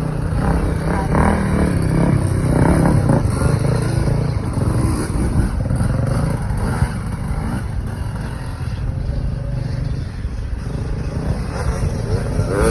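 Big single-cylinder four-stroke engine of a 1988 Honda XR600R dirt bike running hard while riding, its pitch rising and falling with the throttle.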